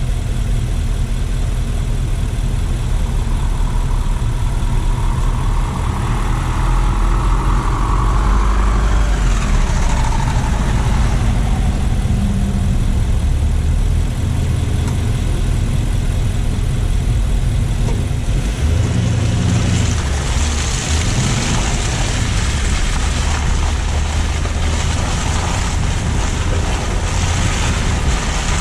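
Car driving through city streets, a steady low engine and road rumble. A whine rises and falls about eight to ten seconds in, and a hiss grows louder about twenty seconds in.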